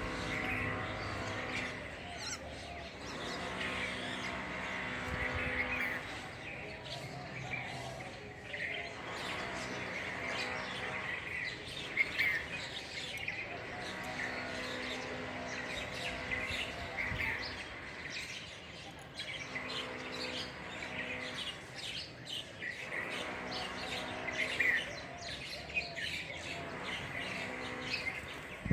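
Birds chirping, with bursts of short calls repeating every couple of seconds.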